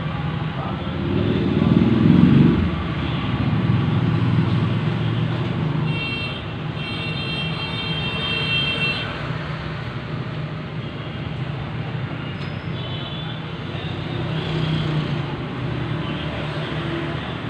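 Road traffic noise: a steady rumble of passing vehicles, with one louder vehicle going by a second or two in and a brief high tone a few seconds later.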